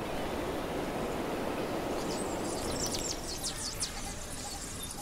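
Outdoor wildlife ambience: a steady rushing background with birds chirping in short high calls, mostly from about two seconds in.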